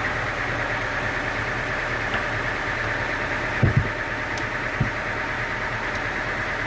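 Sawmill engine running steadily at idle, with a couple of dull thumps a little past halfway.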